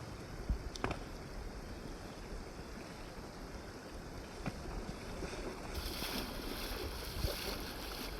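Flowing river water, a steady rushing hiss with a few light knocks. About two-thirds of the way through, the hiss turns brighter and louder abruptly.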